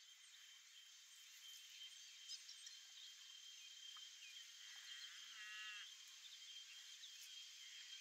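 Faint birdsong over a quiet rural background: scattered high chirps, with a short run of quick repeated notes about five seconds in. A steady, thin high-pitched tone runs underneath throughout.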